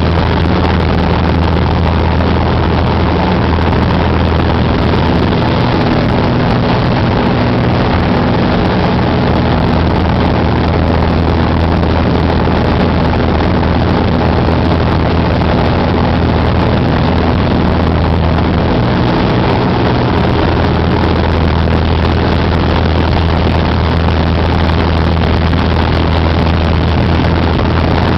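Cessna 188 AgTruck's piston engine and propeller running steadily in flight, a loud, even drone with a deep hum underneath.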